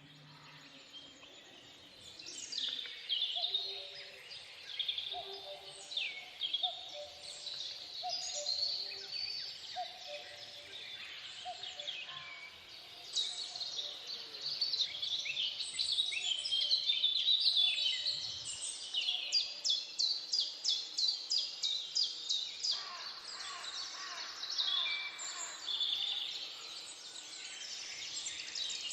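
Several birds singing and calling together, with many overlapping high chirps and whistles. A lower short note repeats about once a second through the first half, and fast, even series of notes come after about nineteen seconds and again near the end.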